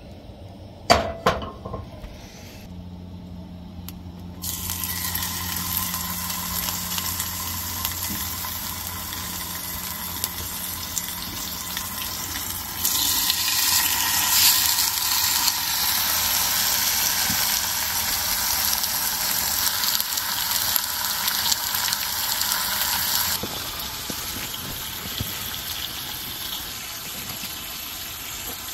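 Bacon sizzling in a hot frying pan, starting suddenly about four seconds in as it goes into the pan, louder through the middle and easing a little near the end. A couple of sharp clicks come just before.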